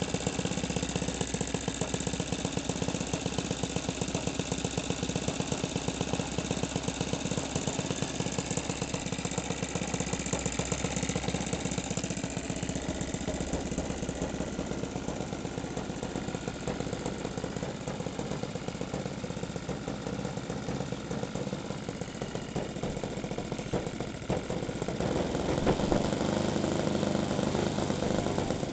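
OS 91 four-stroke model aircraft engine running steadily at low speed, getting louder in the last few seconds as it picks up.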